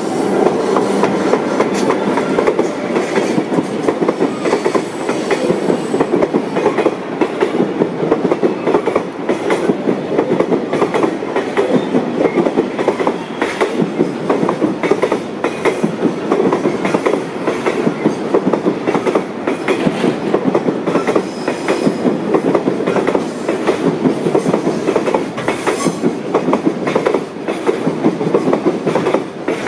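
A train running on the rails, its wheels clattering continuously over the rail joints.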